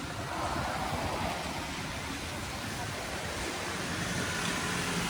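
Steady hiss of a wet city street: rain and traffic on wet roads, a constant rushing noise with no distinct events.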